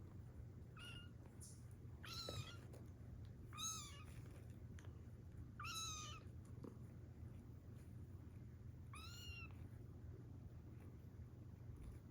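Young kittens mewing: five short, high-pitched mews spread irregularly over about ten seconds, over a faint low hum.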